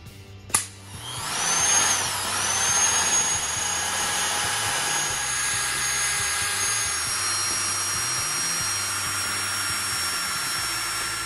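One sharp hammer strike on a steel punch about half a second in, then a corded electric drill boring into steel square tubing for a rivet hole. Its whine rises as it spins up, dips once, then holds steady under the grinding of the bit in the metal, stepping slightly lower about seven seconds in.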